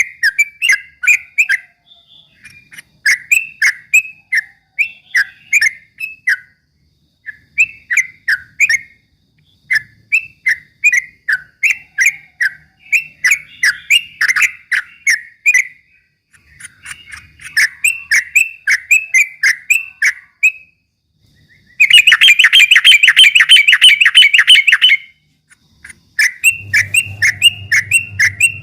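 Yellow-vented bulbul (trucukan) singing fast 'ropel' song: rapid strings of short repeated chirping notes in phrases of a few seconds with brief pauses. About three-quarters of the way through comes a louder, faster burst of notes.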